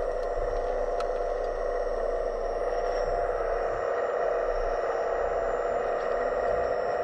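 Steady mechanical whine of a scale RC excavator's electric hydraulic pump running, with a few faint ticks.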